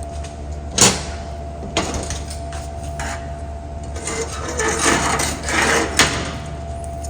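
Hand tools knocking and scraping on the old metal window crank hardware as its small tabs are pried back: a sharp knock about a second in, another near two seconds, then a stretch of scraping and clatter ending in a knock about six seconds in. A steady hum runs underneath.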